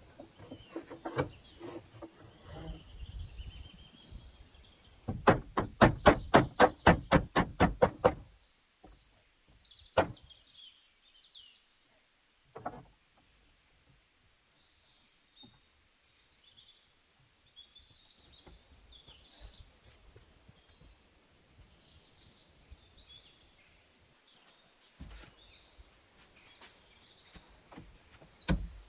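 A quick run of about a dozen sharp knocks, about four a second, with scattered single knocks before and after. Birds chirp in the later part.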